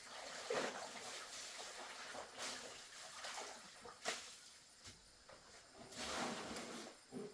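Water sloshing and splashing in uneven surges, with a couple of sharper splashes.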